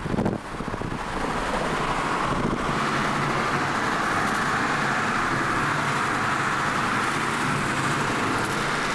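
Steady running noise of a motor vehicle, an even rush of road and wind noise with a low engine hum underneath.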